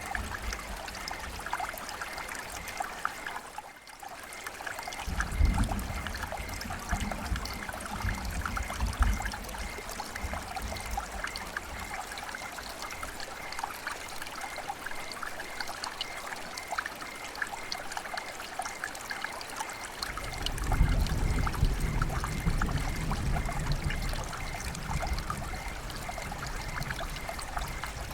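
River water flowing and trickling steadily, with a low rumble that swells for a few seconds at a time.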